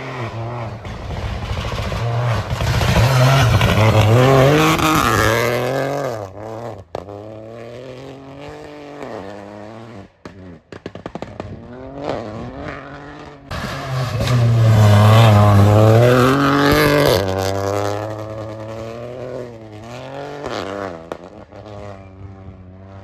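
Rally cars on a forest stage flat out past the spectators, engines revving up and dropping back through gear changes, with two loud passes, one about four seconds in and another about fifteen seconds in. Brief sharp cracks and cut-outs come between them.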